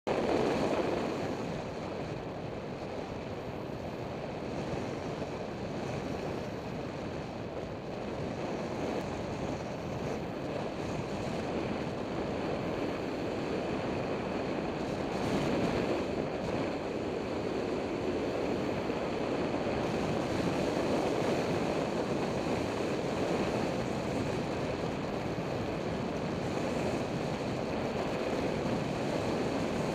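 Steady wind noise rushing over the microphone, an even rushing sound with no separate events.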